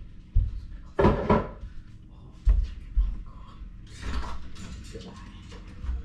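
Food containers and jars being handled and set down as a refrigerator is emptied: several dull thumps, a louder clatter about a second in, then rattling and rustling.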